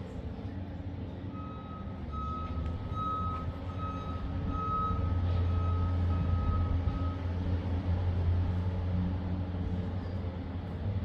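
Ford 429 Super Cobra Jet V8 running with a steady low rumble that gets louder about halfway through. A high, pulsing beep sounds over it from about one second in until about seven seconds in.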